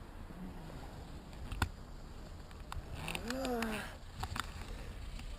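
Low, steady road and engine rumble inside a moving car, with a sharp click about a second and a half in and a short voice-like sound that rises and falls about three seconds in.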